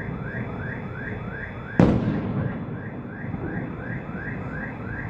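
A single loud firework explosion about two seconds in, a sharp bang with a fading tail, over the steady repeating rising whoop of an electronic alarm, about three whoops a second.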